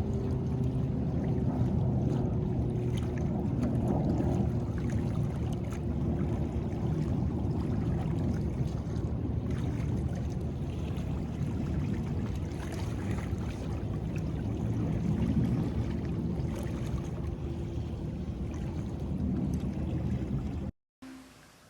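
Boat engine running steadily with a low hum over the rush of rough, fast-moving water. It cuts off abruptly near the end.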